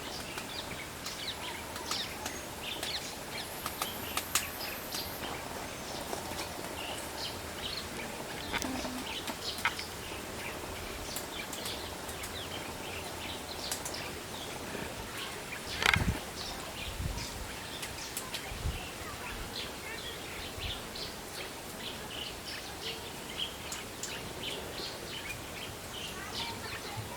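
Irregular light tapping of a yellow-crowned woodpecker pecking at wood, among scattered bird chirps, with one louder knock about sixteen seconds in.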